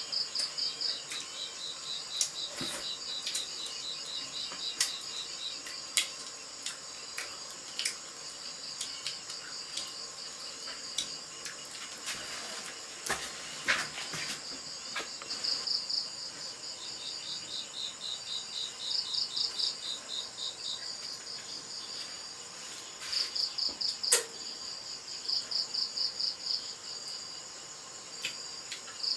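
Crickets chirping in repeated trains of fast pulses over a steady high trill, with scattered sharp clicks or taps, the loudest about halfway through and again near the end.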